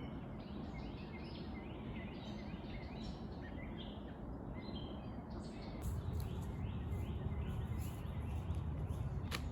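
Small birds chirping repeatedly over a steady hum of distant road traffic. About six seconds in the low rumble grows louder, and there is a sharp click near the end.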